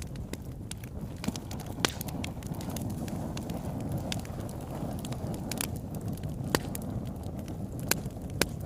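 Fireplace fire crackling: a steady low rush of flames with frequent small crackles and a few sharp, louder pops scattered through.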